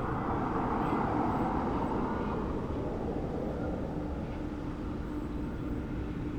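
Empty coal train hauled by diesel locomotives, giving a steady rumble. A low, even hum comes in about two and a half seconds in.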